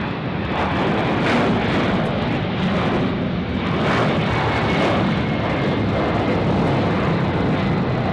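Boeing 767 jet engines running at takeoff thrust: a loud, steady roar.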